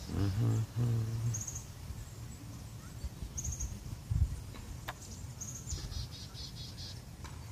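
Songbirds chirping: a short high trill repeats about every two seconds, with a quick run of chirps near the end. Wind rumbles on the microphone, with a gust thump about four seconds in, and a man hums briefly at the start.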